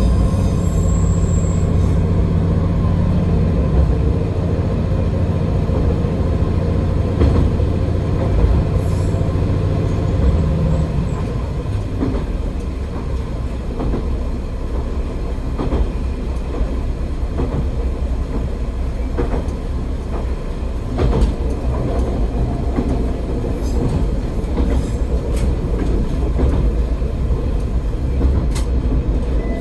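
AN-8800 diesel railcar running on the line: a steady engine drone for about the first ten seconds, then the engine note drops away as it coasts, leaving the rumble of wheels on rail with scattered clicks from rail joints.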